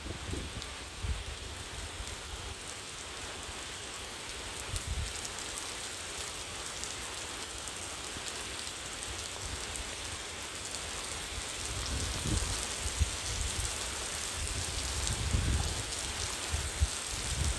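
Steady rain falling, an even hiss that grows a little heavier in the second half, with low rumbles swelling near the end.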